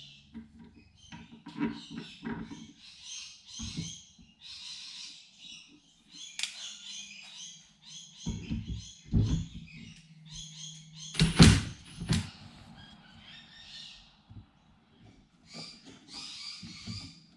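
Wooden knocks, creaks and scraping as the parts of an old wooden chair are handled and worked, with one louder knock about eleven seconds in.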